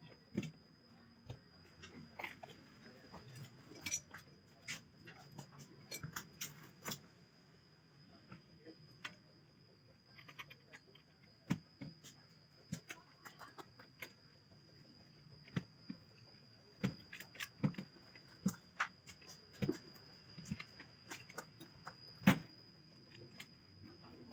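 Irregular clicks, taps and knocks of tools and parts being handled during air-conditioner installation work, one louder knock near the end, over a faint steady high-pitched tone.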